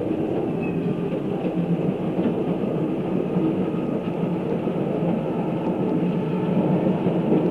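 Electric interurban railcar running along the track: a steady rumble of wheels on rails.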